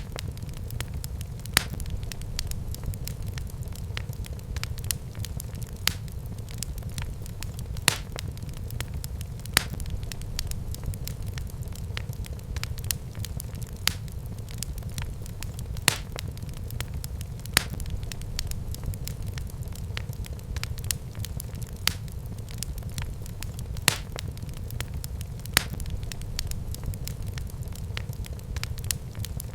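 Wood fire in a fireplace crackling: a steady low rumble of burning, fine crackles throughout, and a sharp pop about every two seconds.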